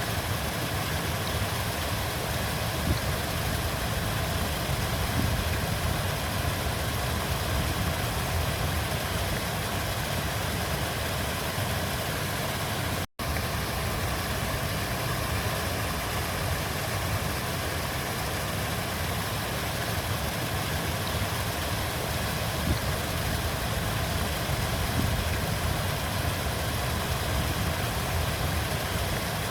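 A river flowing: a steady, unbroken rush of water, strongest in the low end. It cuts out for a split second about thirteen seconds in.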